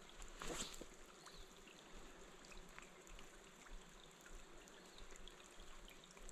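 Faint running river water, with a brief louder rush about half a second in.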